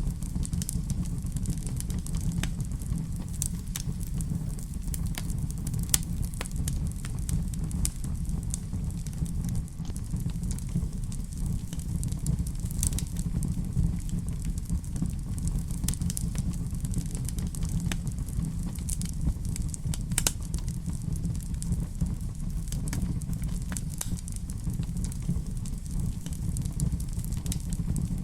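Fire crackling in a fireplace: scattered sharp pops and crackles over a steady low rumble.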